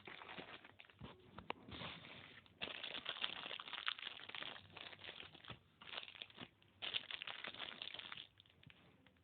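Earphone packaging being handled and opened: irregular crinkling and rustling in bursts, with small crackles, stopping shortly before the end.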